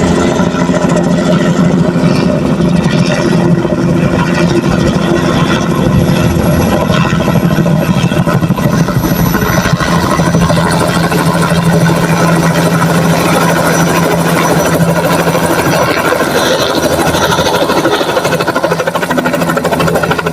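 Helicopter running close by: steady turbine tones over the fast beat of the rotor blades, loud throughout.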